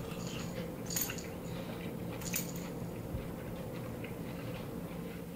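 A person chewing a mouthful of butter-fried lake trout, with a few faint clicks of a fork on the plate, over a steady low hum in the room.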